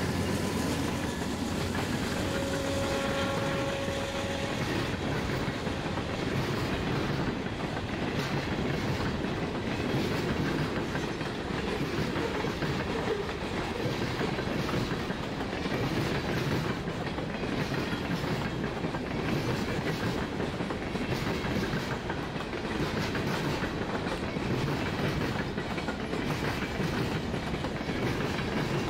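A diesel-hauled freight train passing at close range: a locomotive goes by at first, then boxcars and covered hoppers roll past with a steady clickety-clack of wheels over the rail joints.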